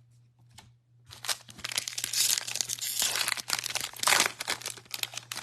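A Bowman baseball card pack's foil wrapper being torn open and crinkled by hand, starting about a second in. The dense crackling runs for about four seconds, loudest in two spells.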